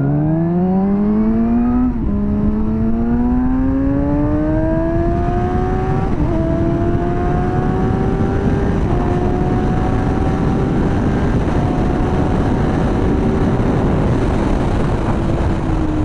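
Motorcycle engine accelerating hard through the gears, its pitch climbing and dropping back at three upshifts, then holding at cruising speed and easing off slightly near the end, with heavy wind noise over the rider's microphone.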